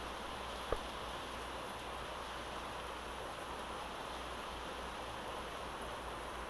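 Steady rain falling, an even hiss, with one sharp tap near the start.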